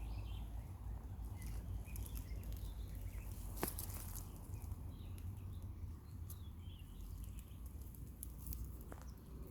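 Outdoor meadow ambience: a steady low rumble with faint, scattered bird chirps and a sharp click about three and a half seconds in.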